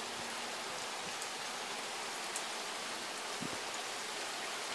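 Steady rain falling on garden foliage and ground, an even hiss with a few faint drips ticking now and then.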